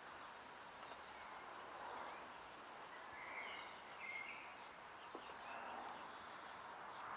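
Faint bird chirps: scattered short high chirps and twitters over a steady background hiss.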